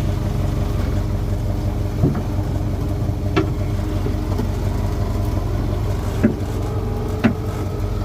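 A boat's engine idling steadily, with four sharp knocks over the hum.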